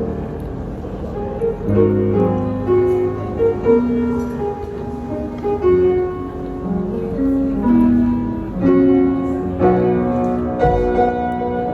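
Piano music: a slow melody of held notes over a bass line.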